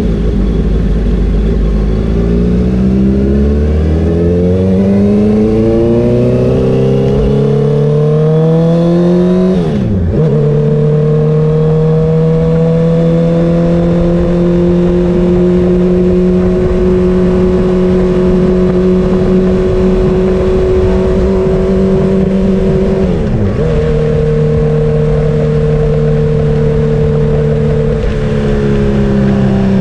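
Honda CBR650R's inline-four engine pulling hard, its pitch rising steadily for about eight seconds, then dropping sharply about ten seconds in at a gear change. It then holds a steady high pitch at cruise, with one brief dip about two-thirds through and a slight easing near the end.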